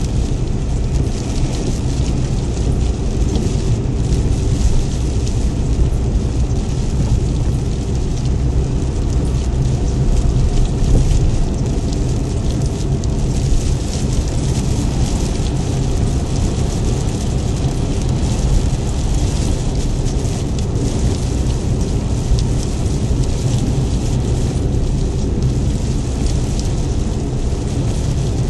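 A vehicle driving steadily in rain: a constant low engine and road rumble under a steady hiss of rain and tyre spray.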